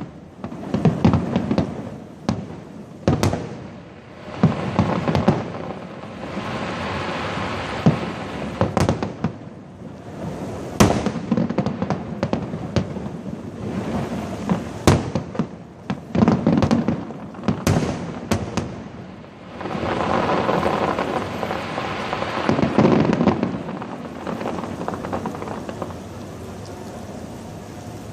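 Fireworks display: aerial shells going off in irregular sharp bangs with rumbling booms and crackle in between. The bursts die away about four-fifths of the way through, leaving a steady background hiss.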